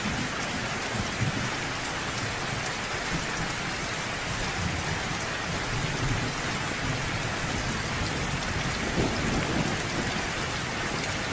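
Steady rain falling, with low thunder rumbling underneath that swells briefly about nine seconds in.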